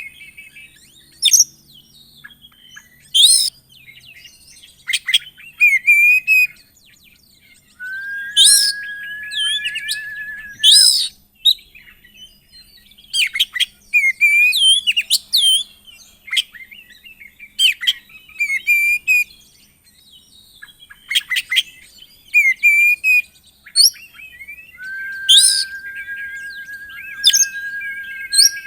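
Oriental magpie-robin (kacer) singing a varied song of short, sharp whistled notes and slurred phrases. Twice it holds one long, level whistle of about three seconds: once about a third of the way in, and again near the end.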